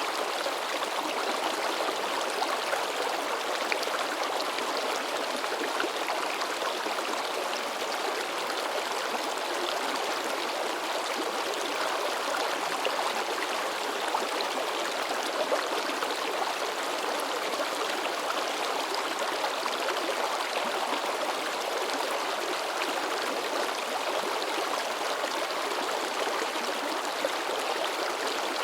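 River water babbling and splashing in a steady, even rush, dotted with many small splashes.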